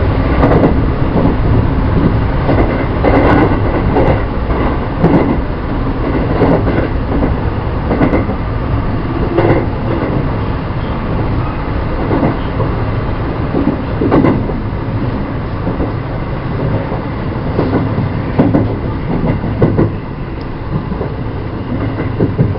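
Running noise of a 223 series 2000 electric multiple unit heard from inside the train: a steady rumble, with the wheels clattering over rail joints every one to three seconds.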